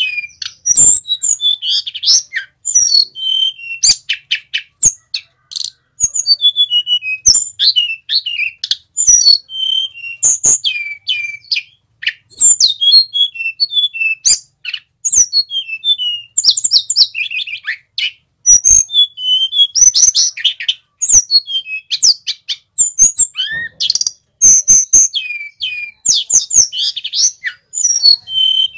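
Male sulingan gunung singing a fast, varied song of high whistled notes and falling slurs, phrase after phrase with barely a pause. Sharp clicks break in between the phrases.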